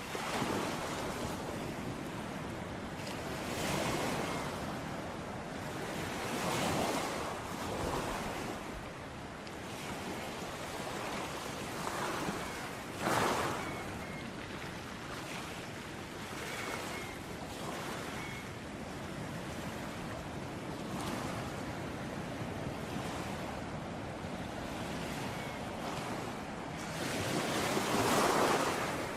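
Ocean waves breaking on a shore: a continuous wash of surf that swells as each wave comes in every few seconds. The loudest wave comes near the end.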